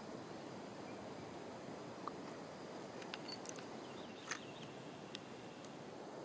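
Faint outdoor ambience, a steady soft hiss, with a few short high chirps of a small bird around the middle.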